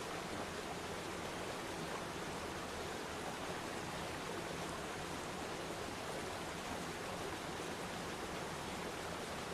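Waterfall: steady rushing of falling water, even and unbroken.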